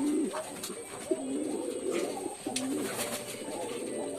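Several domestic pigeons cooing continuously, their low, wavering coos overlapping, with a few sharp clicks among them.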